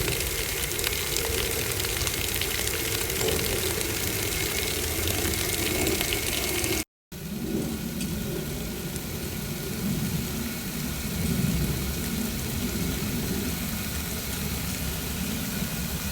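Water from Rain-O-Mat No. 302 quarter-circle stream spray flood irrigators and a flood bubbler splashing steadily, with a low rumble underneath. The sound cuts out for a moment about seven seconds in.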